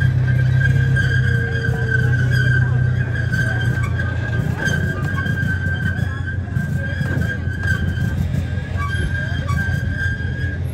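Zoo passenger train running: a steady low engine rumble with a steady high-pitched whine over it, the rumble easing after the first few seconds.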